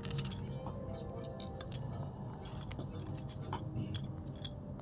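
Plastic Lego bricks clicking and clinking as they are handled and fitted together, a scatter of small irregular clicks over a low background hum.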